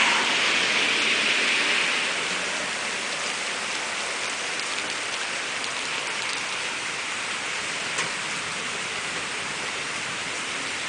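Steady rain pouring down, a little louder for the first two seconds, with a single sharp tick about eight seconds in.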